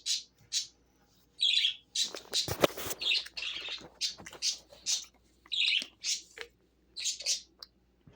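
A pet bird chirping and squawking in short, high calls repeated every half second or so, with a brief louder crackle about two to three seconds in.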